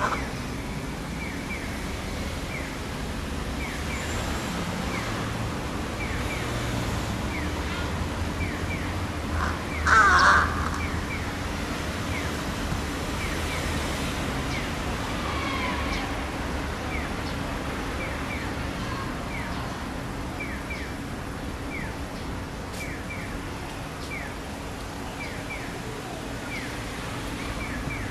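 A juvenile large-billed crow practising its call: one loud, short call about ten seconds in, with a few fainter calls after it. Many faint, short, high chirps repeat throughout over a steady low hum.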